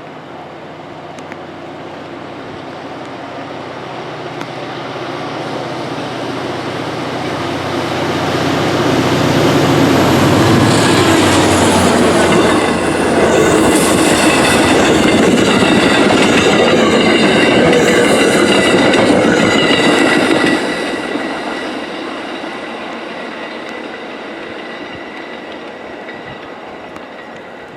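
Diesel-electric commuter train passing at speed behind an MBTA EMD GP40MC locomotive: the engine's hum grows over the first ten seconds or so as it approaches, then the passing train is loud for about ten seconds with wheels clicking over rail joints and a high-pitched ringing from the wheels. The sound drops suddenly as the train clears and fades away.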